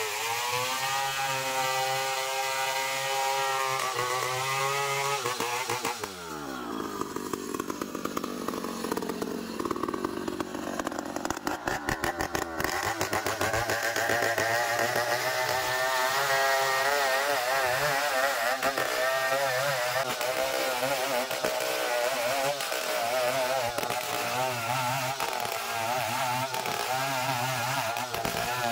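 Chainsaw running while sawing ironwood (ulin) timber. Its engine pitch falls away about five seconds in, then climbs back and wavers up and down through the rest.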